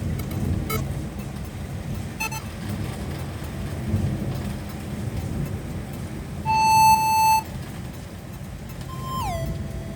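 Low rumble of road traffic. About two-thirds of the way in, a loud beep-like tone holds for about a second, and near the end a shorter tone slides down in pitch.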